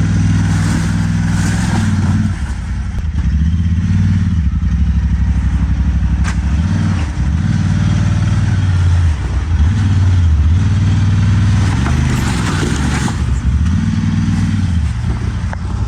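Off-road vehicle's engine revving in repeated throttle bursts, rising and dropping back every second or two, as it works its way up a rocky ledge. There is a sharp knock about six seconds in.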